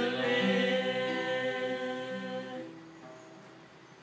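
Final held notes of a sung Thai song, which fade out about two-thirds of the way in.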